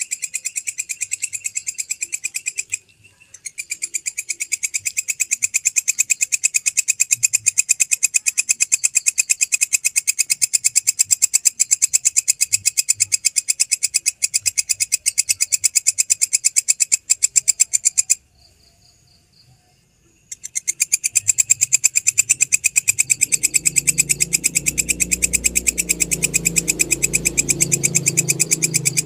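A grasshopper (belalang) stridulating: a shrill, fast, even train of pulses that breaks off briefly about three seconds in and again for about two seconds around the middle. A low hum joins underneath in the last several seconds.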